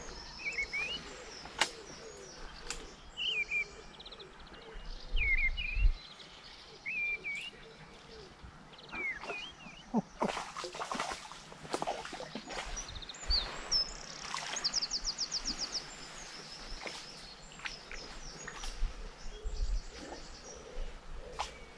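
Small birds chirping and trilling, with bursts of rustling and a couple of low thumps from handling.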